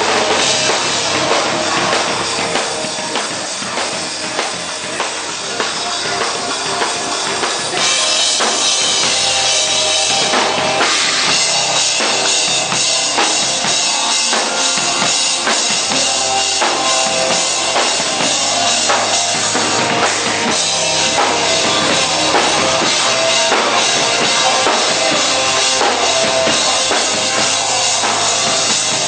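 Hardcore band playing live and loud, drum kit driving with kick drum under the guitars and bass; about eight seconds in the full band comes in harder and the sound grows louder and brighter.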